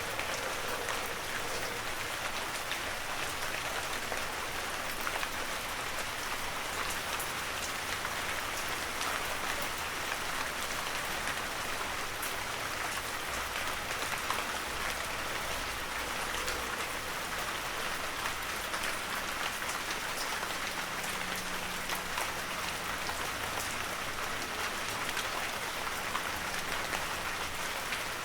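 Heavy rain falling steadily on a forest, a dense even hiss of many close drop impacts.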